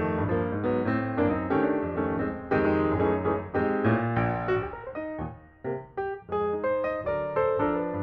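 Background piano music: a melody over chords, with a brief dip in loudness a little past halfway.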